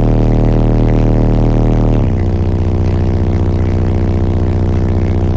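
Three Sundown Audio SALT-12 subwoofers in a ported enclosure playing a very loud, deep sustained bass note that steps down to a lower, pulsing note about two seconds in. The overloaded recording turns it into a dense buzz.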